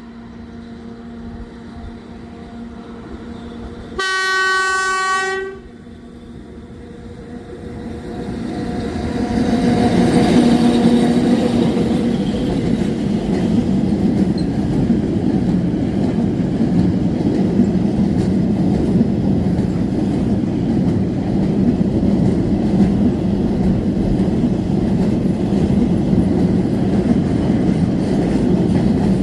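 Freight train hauled by two ET22 electric locomotives: one horn blast lasting about a second and a half, a few seconds in, the Rp1 'attention' warning signal. The train then draws near, and its steady rolling noise over the rails grows loud from about ten seconds in and keeps going as it passes.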